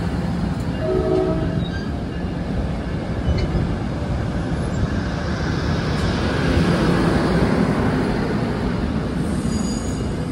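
NJ Transit train passing close by. Its horn gives a short chord blast about a second in, followed by the steady noise of the train's wheels and cars going by.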